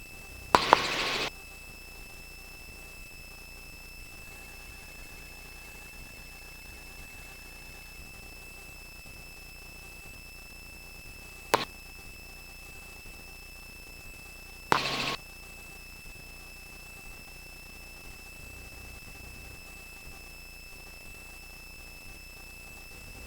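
Helicopter headset intercom line with no one talking: a steady faint hiss carrying a constant high-pitched electronic tone. It is broken by a short burst of noise about a second in, a sharp click near the middle, and another short burst of noise a few seconds later, where the intercom microphone briefly opens.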